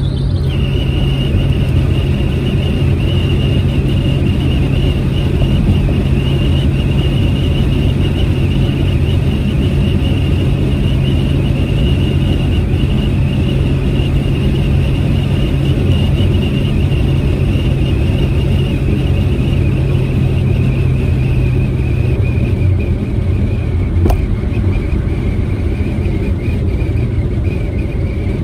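Proton Saga's four-cylinder petrol engine and road noise during a steady drive: a constant low engine drone with a thin high whine above it. Both dip a little in pitch about three-quarters of the way through as the car eases off, and a single click sounds near the end.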